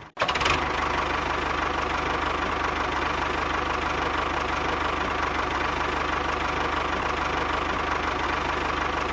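A small engine running steadily at an even idle, with a fast, regular knock. It cuts out for a split second right at the start, then runs on unchanged.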